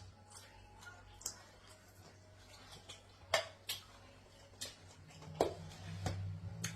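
Eating utensils clinking and tapping against a dish of stew, several separate sharp clicks spaced irregularly, with a low hum rising near the end.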